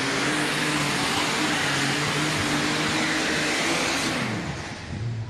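Alcohol-burning super stock pulling tractor engine at full throttle under load. About four seconds in it is throttled back and its pitch falls as it winds down, marking the end of the pull.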